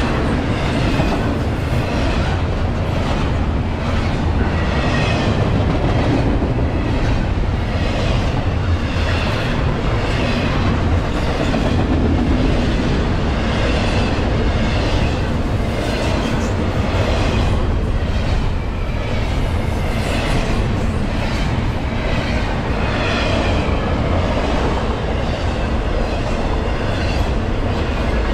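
Intermodal freight train's double-stack container cars and trailer flatcars rolling past close by, their steel wheels clattering steadily on the rails with a regular beat about once a second.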